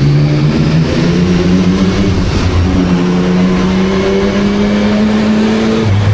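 2024 Yamaha MT-09 SP's inline three-cylinder engine through a Spark full exhaust, pulling under acceleration with its note slowly rising, then dropping sharply near the end.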